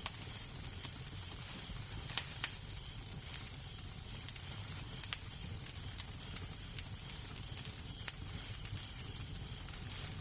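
Wood fire crackling in a fireplace: irregular sharp pops and snaps over a steady hiss and low rumble, with the loudest pops about two seconds in.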